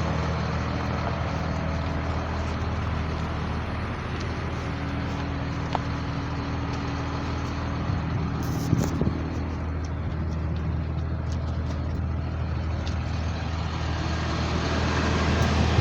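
Blue Bird All American bus engine idling steadily, with a short knock about nine seconds in.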